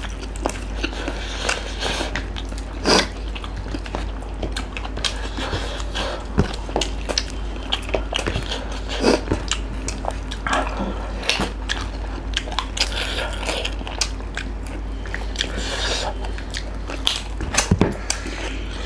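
Two people chewing and smacking their lips while eating spicy duck curry and fried chicken wings by hand, with many short, irregular clicks over a steady low hum.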